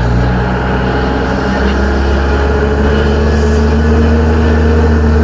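Tram's engine running as the tram travels: a steady low drone with a few steady tones over it. The low hum grows stronger about a second and a half in.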